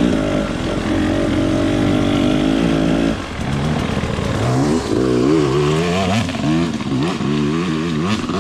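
Off-road trail motorcycle engine running at a steady pitch for about three seconds, then the throttle opened and closed over and over, the engine note rising and falling quickly.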